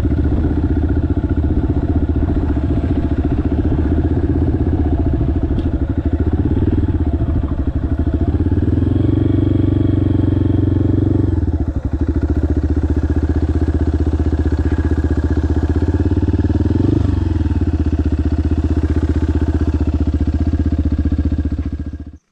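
Single-cylinder dual-sport motorcycle engine running while riding, the engine note held steady. The revs rise and hold from about 9 s, drop near 12 s, and the sound cuts off suddenly near the end.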